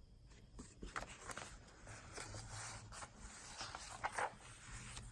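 Faint rustling and sliding of paper and card pages being handled in a handmade journal: several soft scrapes and light taps.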